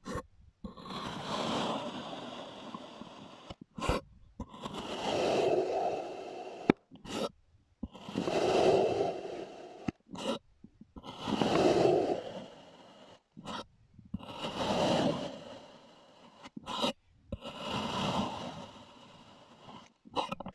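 A blade slicing through packed kinetic sand, crunchy, in about six slow cuts, each two to three seconds long and separated by short silences.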